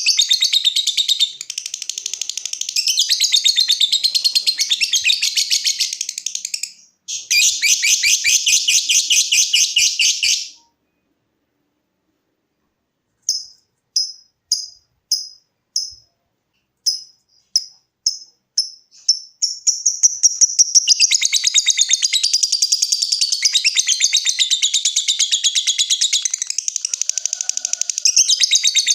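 Lovebird chattering in a long, fast, high trill (ngekek), which breaks off after about ten seconds. After a pause it gives a string of separate sharp ticking chirps (ngetik) that come quicker and quicker, then runs straight into another long unbroken ngekek trill.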